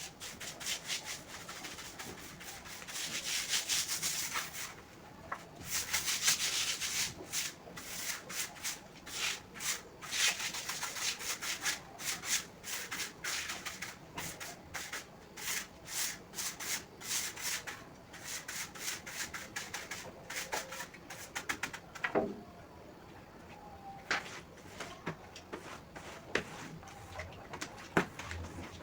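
Floor being scrubbed in repeated brushing strokes: long swishes at first, then quick strokes about two a second, giving way near the end to quieter moments with a few sharp clicks.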